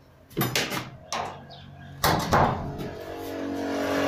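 Hard plastic knocks and clatter, three sharp strikes in the first two seconds, as the vacuum cleaner's housing is handled, followed by a steady droning tone that builds slightly toward the end.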